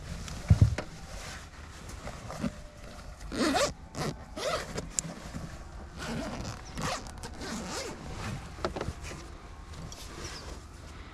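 A zipper pulled in several short strokes, with a dull knock near the start.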